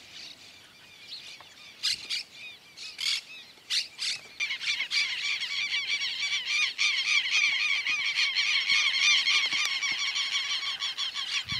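Bird calls: a few scattered single calls, then from about four seconds in a dense, fast run of repeated nasal chattering notes that goes on without a break.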